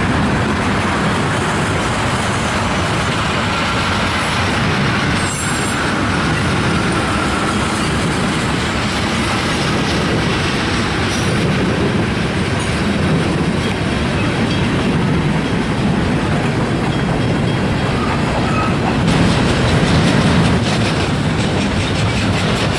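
Freight train rolling past: a steady rumble of wheels and cars with clacking over the rail joints and a faint wheel squeal at times. The clacking gets faster and louder near the end.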